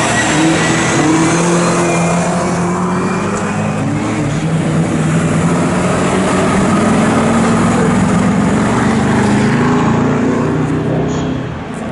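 Engines of pre-1966 historic touring cars racing, several at once, their pitch rising and falling as they rev through the gears. The sound drops somewhat near the end.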